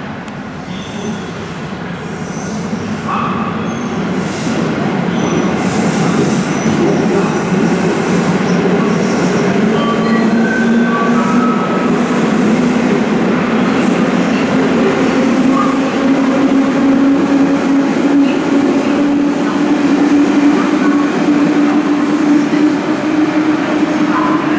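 JR West 221 series electric train pulling out of an underground platform and accelerating away, a loud rumble building over the first few seconds. Its motor whine climbs slowly in pitch through the second half as it gathers speed.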